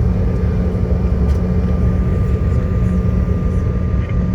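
Airliner cabin noise on the ground after landing: a steady low engine and airframe rumble with a faint steady whine above it.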